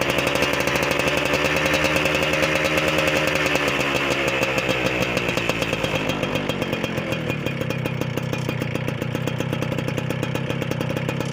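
Motorcycle with a gutted (hollowed-out) stock muffler held at raised revs, its pitch wavering up and down, then dropping back to a steady, evenly pulsing idle about six seconds in. The baffle-less exhaust gives it a jingling note meant to mimic a two-stroke Kawasaki Ninja.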